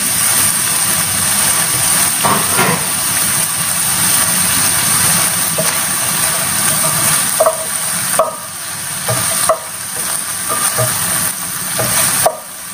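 Chicken and shrimp sizzling in hot oil with vegetables in a nonstick pan, stirred with a spatula, with a few sharp clacks of the spatula against the pan.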